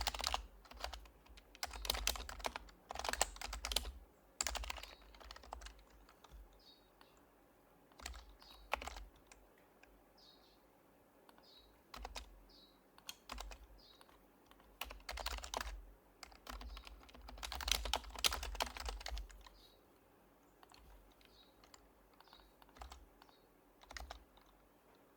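Typing on an HHKB Professional HYBRID Type-S keyboard with its quiet Topre switches. Several bursts of rapid keystrokes, each a second or two long, are separated by pauses with scattered single soft clicks.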